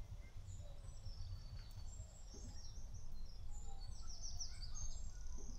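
Birds chirping and singing in short high notes, with a quick run of rapid chirps about four seconds in, over a steady low rumble of outdoor background noise.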